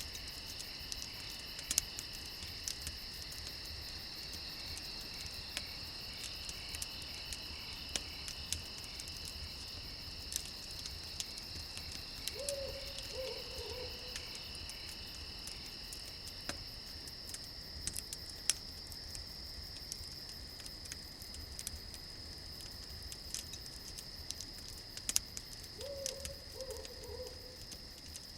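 Crickets chirping steadily while a campfire crackles with frequent sharp pops, and an owl hoots twice, about twelve seconds in and again near the end.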